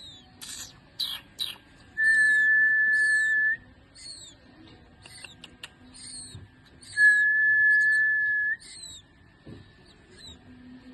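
Two long, steady, high whistles, each about a second and a half, the second starting about five seconds after the first. Short falling chirps repeat between them, and three brief hissy bursts come near the start.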